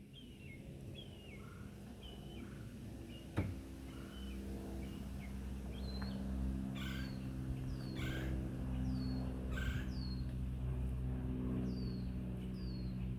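Red-bellied woodpecker calling a run of short falling notes, repeated every second or so. A steady engine hum grows louder underneath, and there is one sharp click a few seconds in.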